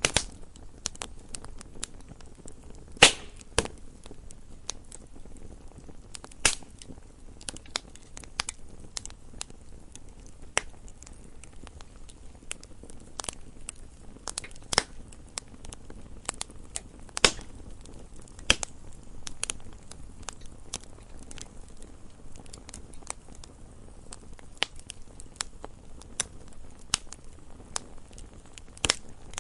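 Campfire crackling: a steady low hiss of burning wood with irregular sharp pops and snaps, a few of them much louder than the rest.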